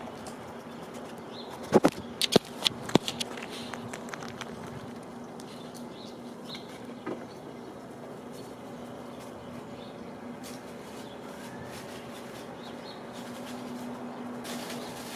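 A quick run of sharp knocks and taps about two seconds in, like birds or a squirrel striking a bird feeder, over a steady low hum.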